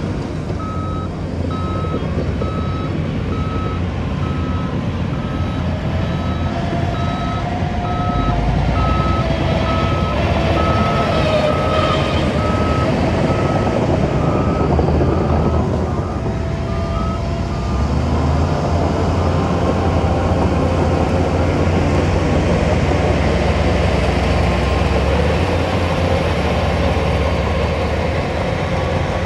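Reversing alarm on a heavy construction machine beeping at one pitch, about one beep a second, over a diesel engine running at work; the beeping stops a little over halfway through while the engine keeps running, louder.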